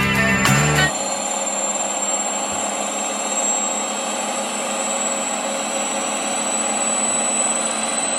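Domestic laundry machine running, a steady whirring rush with a thin high-pitched whine over it. It starts about a second in, after the end of a guitar music sting.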